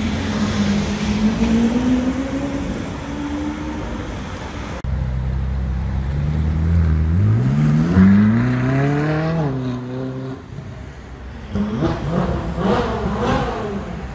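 Car engines accelerating past in street traffic, their notes rising and falling in pitch. About five seconds in, a red Ferrari 458 Spider's V8 runs at a low steady note, then revs up with a steeply climbing note that is the loudest point, and falls away. Near the end another car accelerates through several quick rises in pitch.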